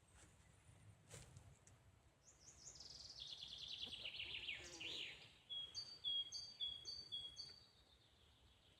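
Songbirds singing faintly: a quick trill of notes falling in pitch, then a bird repeating a high-low two-note phrase about four times.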